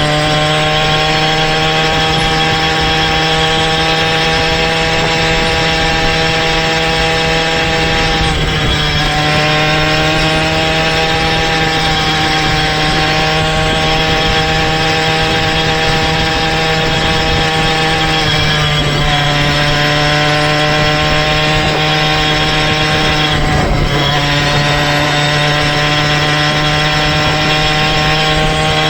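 Motorized bicycle's small engine running at a steady pitch while riding, with brief dips in pitch about 8, 18 and 24 seconds in as the throttle eases and picks up again.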